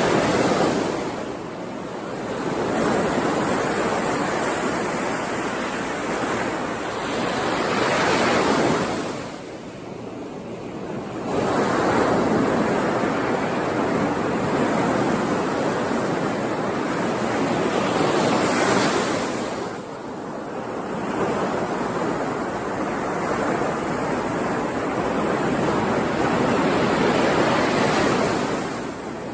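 Ocean surf: waves breaking and washing in, swelling and easing with quieter lulls roughly every nine to ten seconds.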